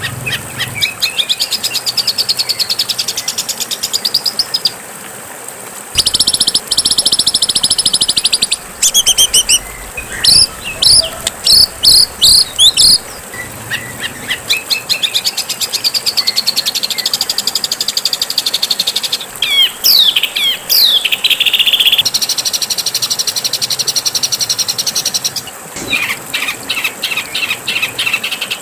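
Songbirds singing loudly in phrase after phrase: fast rattling trills alternate with strings of sharp, sweeping whistled notes and a few gliding whistles.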